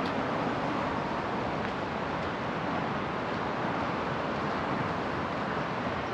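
Steady outdoor background noise, an even rumble and hiss with no distinct events standing out.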